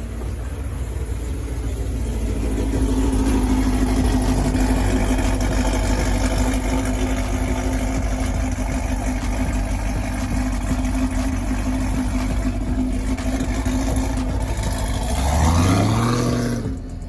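Car engine running loudly, held at one steady pitch for a long stretch. Near the end it revs up sharply, climbing in pitch.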